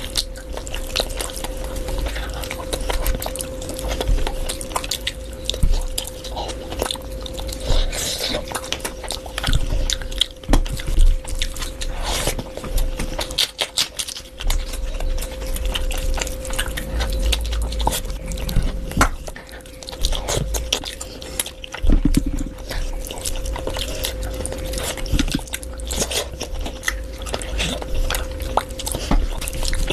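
Close-miked eating: wet chewing, biting and lip smacks on spicy curry, fried chicken and rice, irregular and continuous, with a steady hum underneath.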